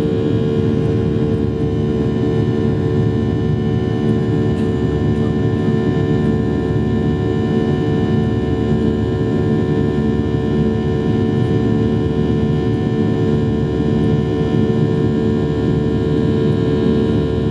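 Boeing 737-800's CFM56-7B jet engines heard from inside the cabin during takeoff: a loud, steady rumble with several steady whining tones layered over it.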